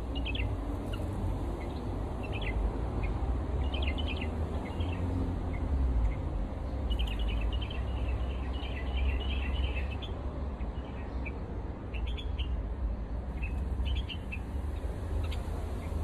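Small birds chirping: short, high chirps, sometimes in quick clusters, over a steady low rumble.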